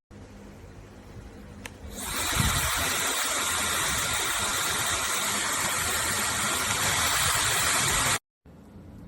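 Laifen SE high-speed hair dryer running, first as a quieter hum, then about two seconds in a loud, steady rush of air with a faint high whine. It stops abruptly near the end.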